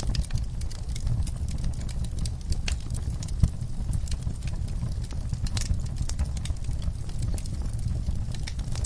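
Wood fire burning in a fireplace: irregular sharp crackles and pops over a low steady rumble, with one louder pop about three and a half seconds in.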